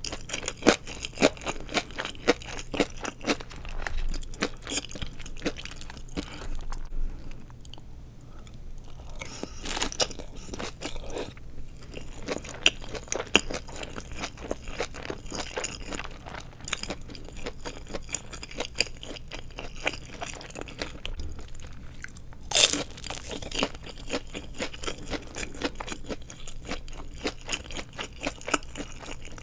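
Crunching and chewing of deep-fried seaweed rolls filled with glass noodles: crisp crunches come thick and fast at first, thin out midway, with one loud crunch about three quarters of the way through.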